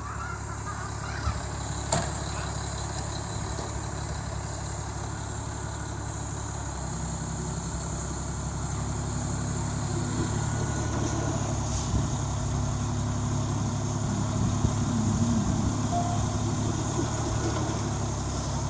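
A truck engine running steadily, its hum growing stronger about seven seconds in, with a few short knocks.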